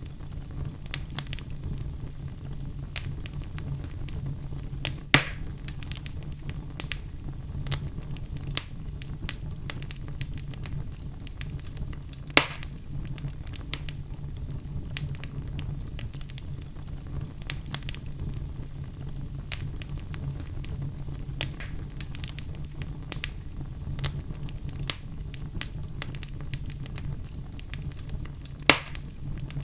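Logs burning in a fireplace: a steady low rumble of flames under constant small crackles. Three much louder sharp pops stand out, about five seconds in, about twelve seconds in and near the end.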